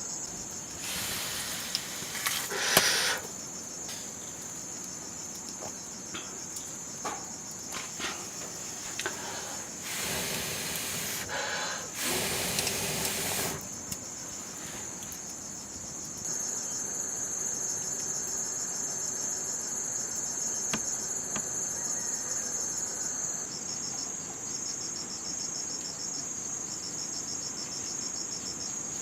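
Insects, crickets by their sound, chirring in a high steady trill. A second, louder trill joins for several seconds past the middle. There are a few short bursts of noise in the first half, the loudest about three seconds in, and scattered clicks.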